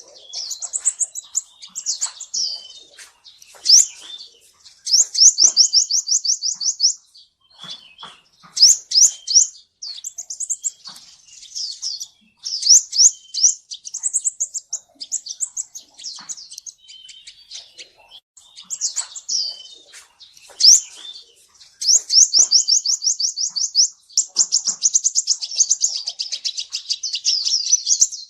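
Kolibri Ninja sunbird singing: high, thin chirps and rapid trills come in phrases with brief pauses, then a long, fast trill near the end.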